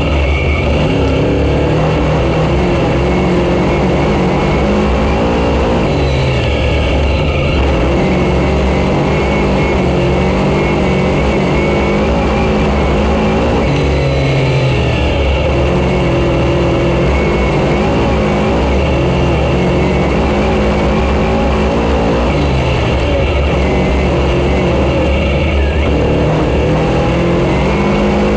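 Race car engine running hard on a dirt oval, its pitch climbing as it accelerates and dropping as it lifts, in a repeating cycle every several seconds.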